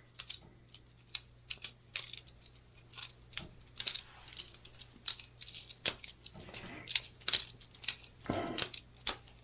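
Boker Plus balisong butterfly knife being flipped by hand: an irregular run of sharp clicks and clacks, a few each second, as the handles and blade swing around and knock together.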